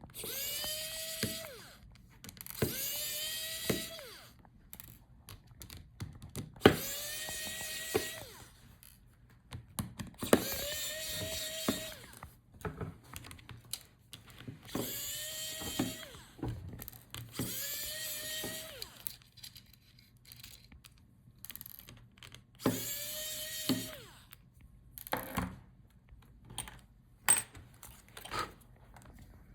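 Small electric screwdriver backing out laptop hinge screws. It runs in short spins, each quickly rising to a steady whine for a second or two, about eight times. Light clicks and rattles of screws and parts being handled fall in between.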